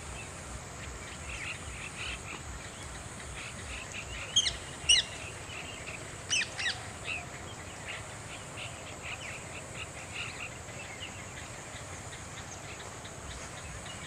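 A flock of birds calling in a tree: many short chirps throughout, with a few louder, sharper calls about four to five seconds in and again around six to seven seconds in.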